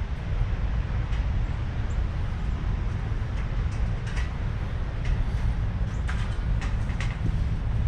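Steady low rumble, with a few faint short taps scattered through it.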